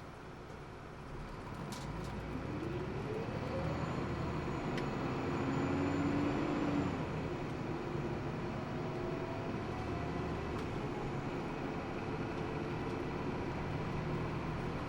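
Hino Blue Ribbon II city bus heard from inside the cabin, accelerating and then running on. Its engine and drivetrain grow louder over the first few seconds with a tone that rises in pitch, and the rumble then holds steady with road noise.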